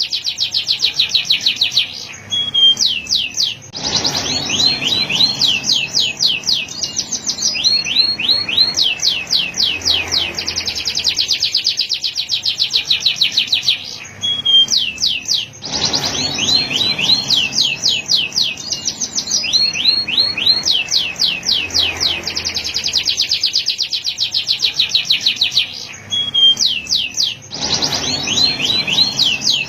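Male canary singing a long song of fast trills and rolls, each phrase a rapid run of repeated high notes, with brief pauses between phrases.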